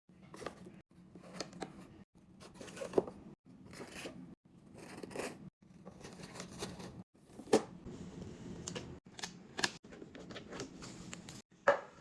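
Snack packaging and plastic containers being handled: crinkles, clicks, taps and rustles, in short snippets broken by sudden cuts.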